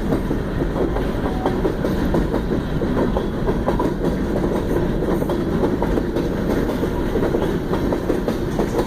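Central Oregon and Pacific freight train's cars rolling past at close range: a steady rumble of steel wheels on rail with a continual run of clacks and clicks over the rail joints.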